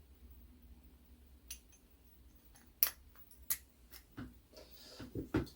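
Scattered light metallic clicks and taps of a clock mainspring and barrel being handled on a mainspring winder, the sharpest about three seconds in and a quick cluster near the end, over a faint steady low hum.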